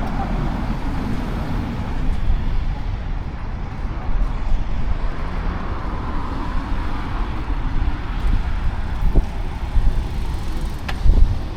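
Steady road traffic noise with a low rumble. Two short sharp knocks come near the end, the second the louder.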